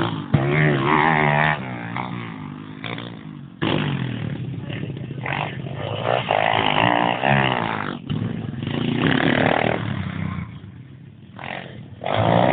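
Pit bike engine revving, rising and falling in pitch in several surges.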